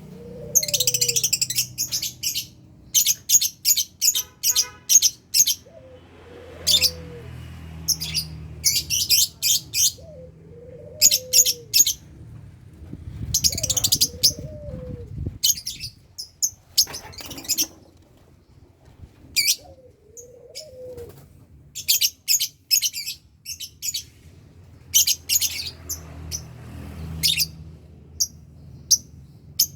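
Lovebirds chirping in quick clusters of sharp, high-pitched notes, pausing between bursts. A lower, arched call recurs about every five seconds underneath the chirping.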